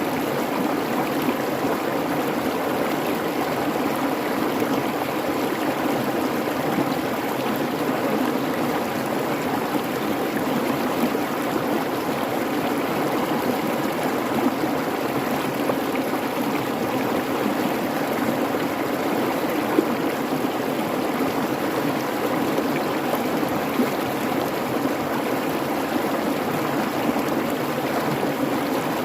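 Babbling creek: water running in a steady, even rush.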